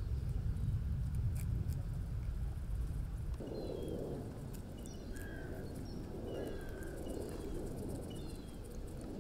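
Small birds chirping in short, falling notes, again and again. Under them a low rumble of wind on the microphone drops away about three and a half seconds in, and a soft rustling follows.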